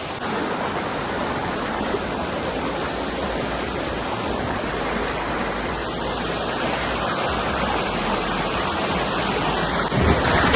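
Steady rush of water from a waterfall, briefly louder near the end.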